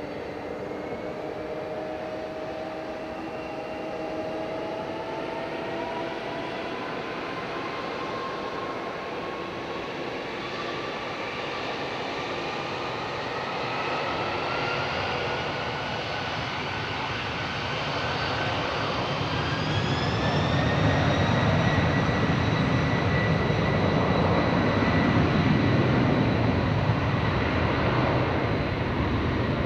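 Boeing 747-400 jet engines spooling up for takeoff: a whine climbing steadily in pitch for about twenty seconds, then a loud low rumble joining it from about twenty seconds in as thrust builds.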